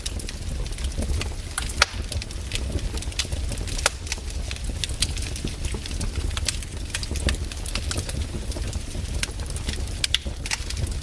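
Wood campfire burning and crackling, with frequent irregular sharp pops and snaps over a low steady rumble.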